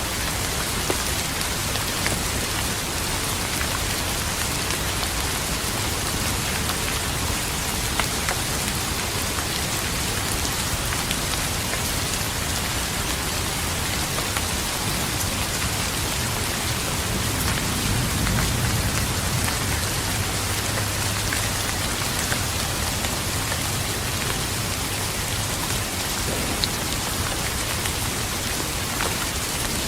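Steady heavy rain falling, with scattered individual drops ticking. A low roll of thunder swells briefly about two-thirds of the way through.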